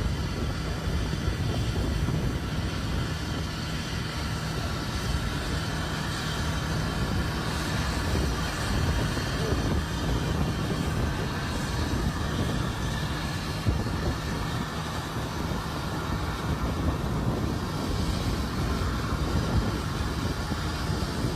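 Steady jet aircraft noise: a continuous low rumble under an even hiss, with a faint steady hum, unchanging throughout.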